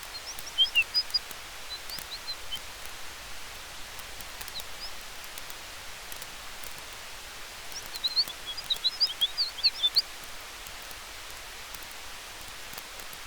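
Campfire crackling with scattered sharp ticks over a steady hiss of wind through trees. Twice, near the start and again about eight seconds in, a short flurry of high, quick chirps rises above it.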